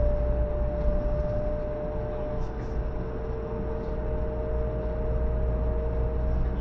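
Cabin running noise of a 500 series Shinkansen: a low rumble from the wheels and track under a steady traction-motor whine. A second whine tone joins about two seconds in and climbs slightly in pitch as the train gathers speed.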